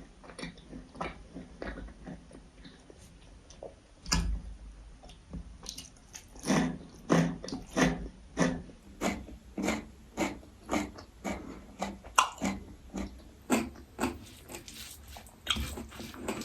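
Close-miked chewing: wet mouth smacks and clicks of a person eating, about two a second through the middle, with a dull low thump about four seconds in.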